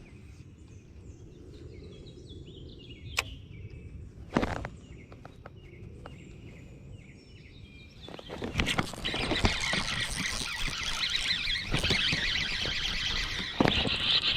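Faint bird chirps and a few light clicks. About eight seconds in, knocks, then a louder steady high-pitched whirring for about six seconds.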